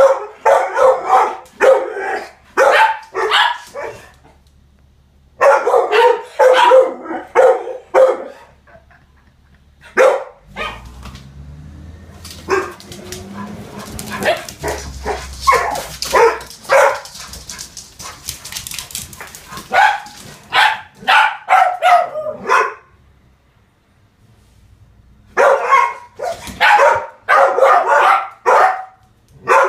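Dogs barking at a passing garbage truck in rapid volleys, with short pauses between. In the middle a low rumble and a hiss from the truck run for several seconds beneath the barking.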